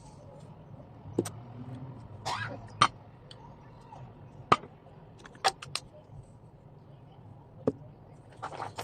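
Household objects being handled during cleaning and tidying: a string of separate sharp knocks and clinks with a short scrape, over a low steady hum.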